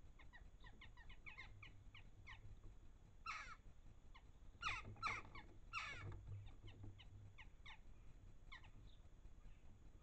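Garden birds calling faintly: a steady run of short, falling chirps, with four louder, harsher calls between about three and six seconds in.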